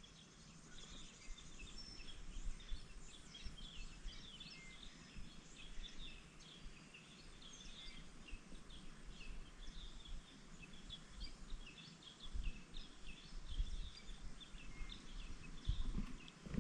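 Faint outdoor birdsong: many small birds chirping in short, high calls scattered throughout. A few soft low thumps are heard in the second half.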